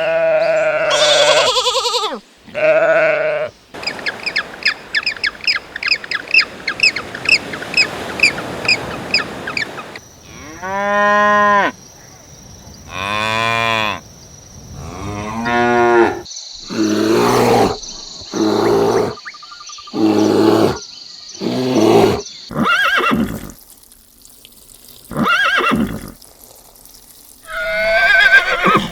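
A string of different farm animal calls, one after another with short gaps. A few seconds in there is a fast run of evenly repeated high calls, and several long arching calls follow.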